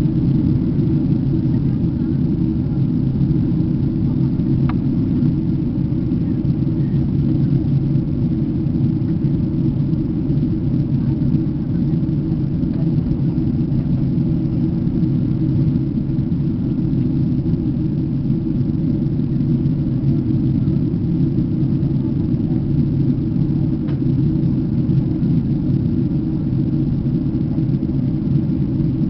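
Airliner cabin noise: a steady, low rumble of the engines and airflow heard from inside the passenger cabin during the landing.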